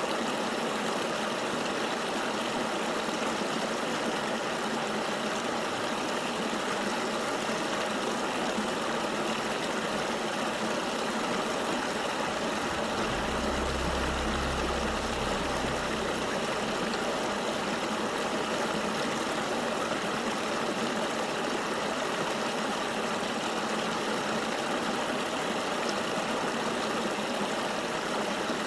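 River water flowing: a steady, even rush. A brief low rumble joins it for about three seconds near the middle.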